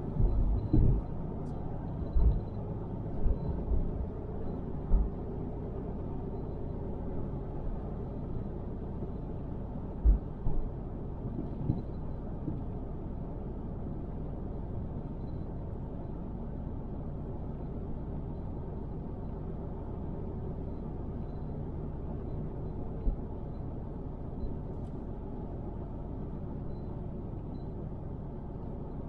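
Car driving along a road, heard as a steady low road-and-engine rumble, with several brief low thumps in the first few seconds and another about ten seconds in.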